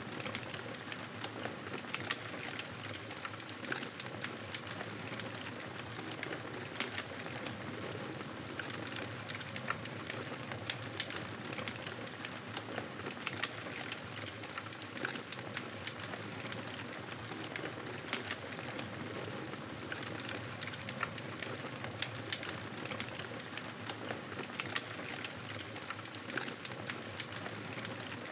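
Campfire burning with a steady hiss and a constant scatter of small crackles and pops from the burning wood.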